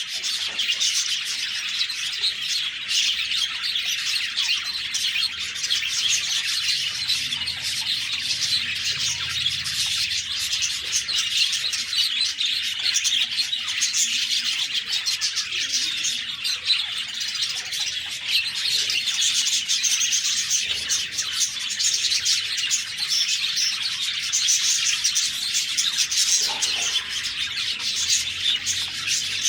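A flock of budgerigars chirping and warbling together without a break, a dense overlapping chatter of many birds.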